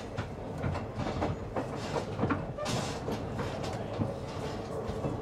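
Train running along the track, heard from inside the carriage: a steady rumble with irregular clicks and knocks from the wheels and rail joints.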